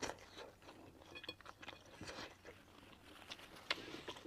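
A person chewing and eating close to the microphone: irregular wet mouth clicks and soft crunches, with a sharper click right at the start.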